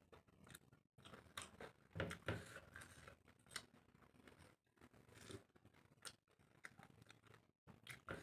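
A person chewing a mouthful of rice and prawn curry, soft separate wet mouth sounds and clicks with short pauses between, a couple of louder ones about two seconds in.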